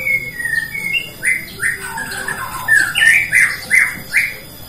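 White-rumped shama (Bornean murai batu) singing: a few clear whistles, then a quick run of loud, sweeping notes that breaks off shortly before the end.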